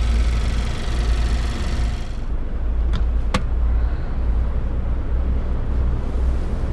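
2016 Mazda MX-5's 2.0-litre four-cylinder engine running with a low steady rumble. A tonal whine over it dies away about two seconds in, and two light clicks follow about a second later.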